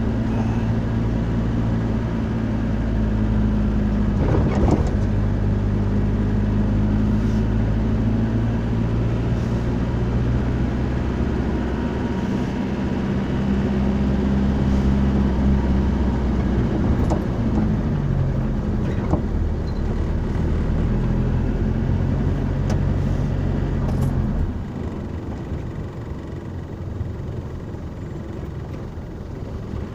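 Car engine and road noise heard from inside the cabin, a steady low hum with a few sharp ticks. Near the end the engine note fades and the sound drops quieter.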